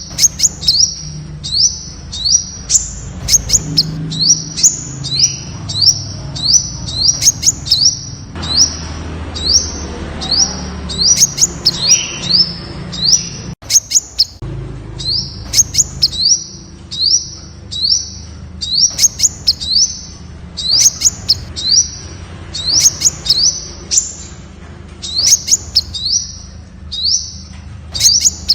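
Temminck's sunbird calling: a long series of short, sharp, high notes, each dipping slightly in pitch, repeated about twice a second with brief pauses between runs.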